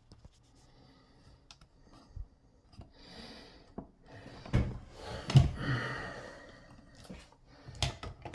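Broom working in a shower stall: a couple of short brushing scrapes among scattered light knocks and clicks.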